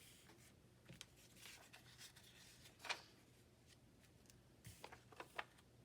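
Faint rustles and light taps of paper cut-outs being moved and laid onto a collage page, the sharpest about three seconds in and a few more close together near the end.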